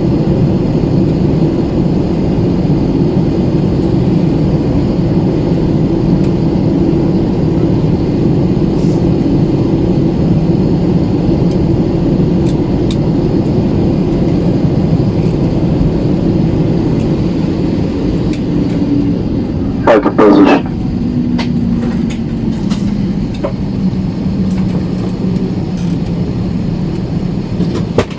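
Airbus A320 cabin noise after landing: a steady low hum with a couple of held tones. About twenty seconds in, a single word is called over the cabin speaker, and after it the hum's tone sits a little lower.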